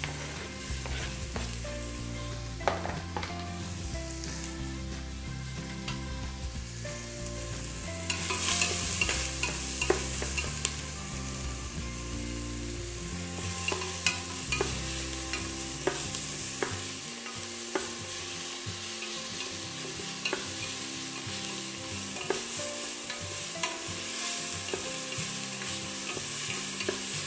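Onions and garlic sizzling in hot vegetable oil in a stovetop pressure cooker, stirred with a utensil that knocks and scrapes against the pot now and then. The sizzle swells about eight seconds in.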